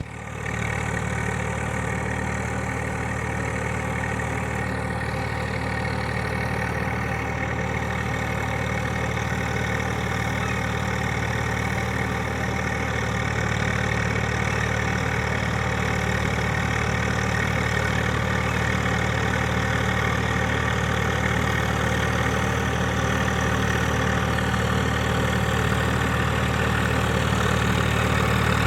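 An engine running steadily at idle, with a click and a brief drop in level right at the start.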